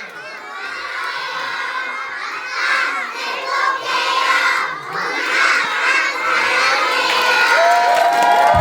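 A crowd of young children shouting and cheering together, many high voices overlapping.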